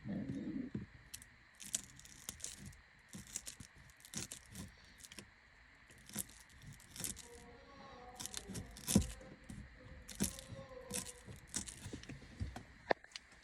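Hands handling parts and packaging: irregular rustling, crinkling and light clicks, with a dull knock at the start, a firmer knock about nine seconds in and a sharp click near the end.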